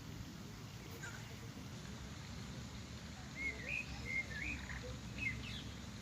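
A songbird singing a few short warbling, whistled phrases about halfway through, over a steady low rumble of background noise.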